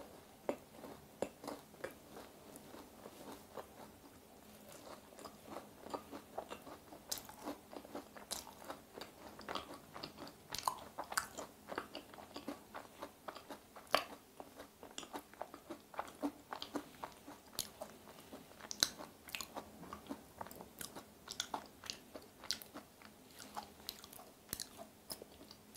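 A person chewing a bite of a thick-filled macaron (ttungkaron), giving a quiet, irregular stream of small mouth clicks and smacks that gets busier a few seconds in.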